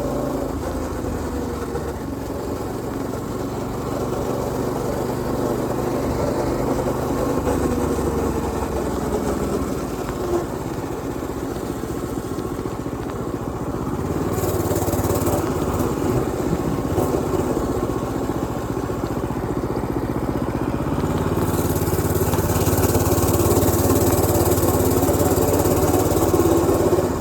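Predator 212 cc single-cylinder four-stroke engine on a mini bike running while riding, its pitch sagging and rising as the throttle changes. Near the end it gets louder and a rushing hiss joins in.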